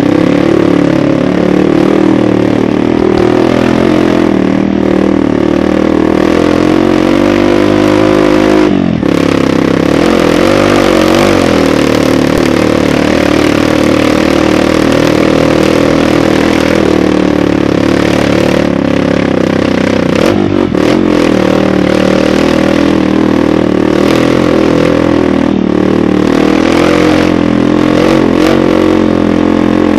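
Kawasaki KLX dirt bike's single-cylinder four-stroke engine running under load, heard from on the bike, its pitch rising and falling with the throttle. The engine drops off briefly about nine seconds in, then picks up again, with a few knocks from the bike near the middle.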